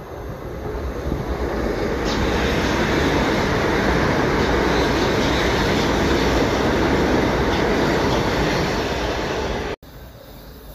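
Passenger train running along the track beside the platform, a steady rumble of wheels on rails that builds over the first two seconds and stays loud. It breaks off suddenly near the end.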